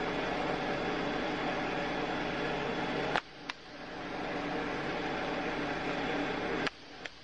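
Steady background hiss and hum, like a fan or room noise. It cuts out abruptly twice, each time with a click a moment later, then fades back in.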